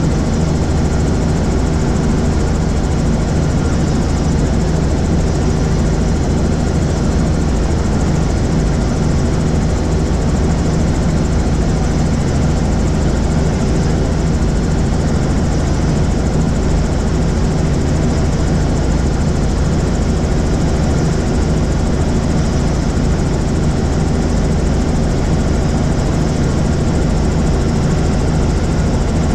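Helicopter's rotor and engine running steadily: a constant loud drone with a low hum and no change in pitch.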